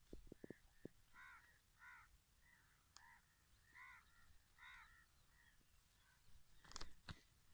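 Faint bird calls, about five short calls with pauses between them, over a quiet field, with a couple of sharp clicks near the end.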